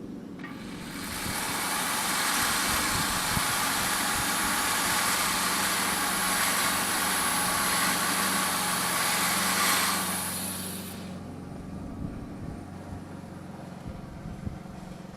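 Rotary grinding tool deburring a cast-iron Dodge 360 engine block, smoothing its sharp edges: a loud, steady hissing grind that starts about a second in and stops about ten seconds in. A steady low hum continues underneath throughout.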